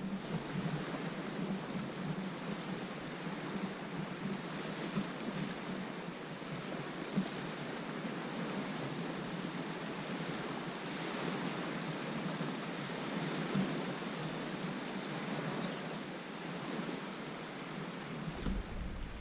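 Steady rushing of small lake waves washing against the shore, with wind, and a low rumble added near the end.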